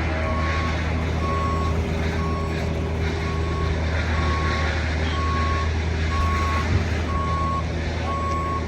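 Semi truck backing up: its reversing alarm beeps about once a second over the steady low running of its diesel engine. A single short knock comes about two-thirds of the way through.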